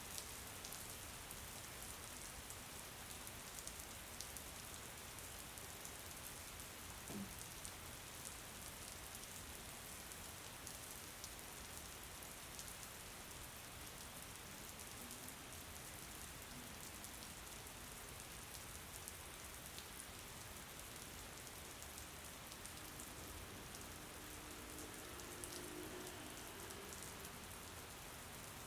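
Steady rain falling, an even hiss with many small drop ticks, and a faint brief hum in the last few seconds.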